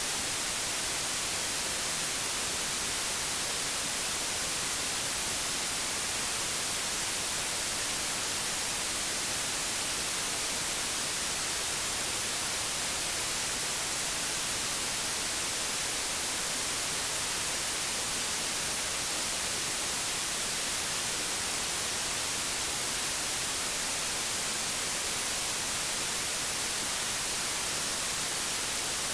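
Television static: a steady, even hiss, brightest in the high end, with no change in level.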